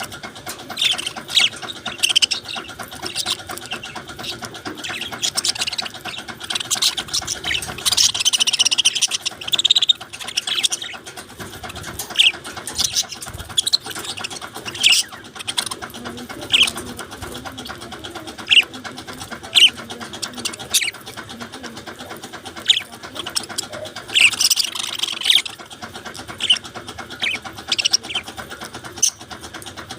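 Budgerigars chirping: short, high chirps about once a second, with two longer runs of warbling chatter, one about eight seconds in and one about twenty-four seconds in.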